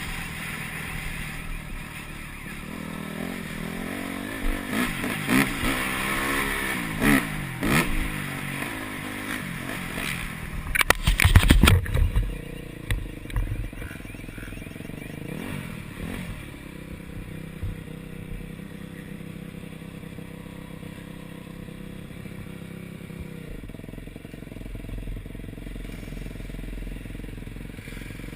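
Yamaha YZ250F single-cylinder four-stroke motocross bike engine, heard from the rider's helmet camera, revving up and down through the throttle. About eleven seconds in there is a loud rush of noise with knocks. After that the engine settles to a lower, steadier note.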